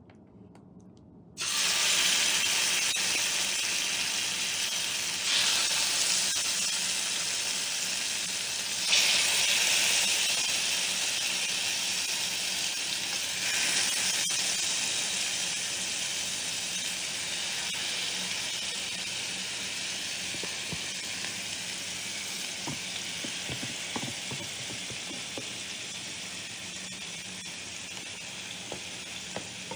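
Yogurt-marinated chicken pieces frying in hot oil in an electric skillet: a loud sizzle starts suddenly about a second and a half in, flares up three times as more chicken goes in and is stirred with a wooden spatula, then slowly dies down.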